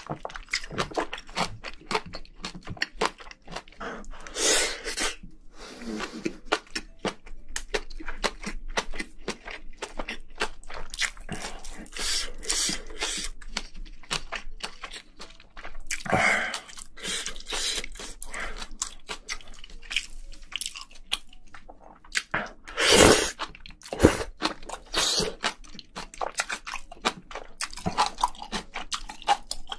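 Close-miked chewing of spicy braised seafood and bean sprouts: rapid crunching and wet mouth sounds, with a few louder smacks along the way.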